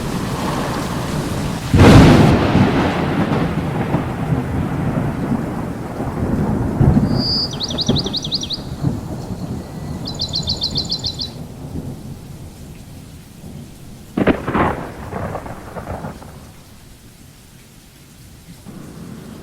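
Thunderstorm with steady heavy rain. A sharp thunderclap comes about two seconds in and rolls into rumbling, and another crack follows later. Twice in the middle a bird sings a short, rapid, high trill. The storm sound drops away near the end.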